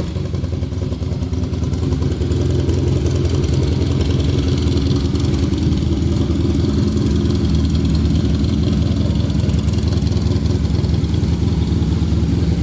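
Honda VF1000's V4 motorcycle engine idling steadily, a little louder from about two seconds in.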